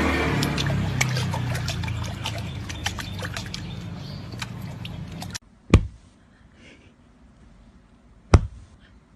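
Water splashing and dripping, with many small clicks over a low rumble, cutting off abruptly about five seconds in. Then near quiet with two sharp knocks a few seconds apart.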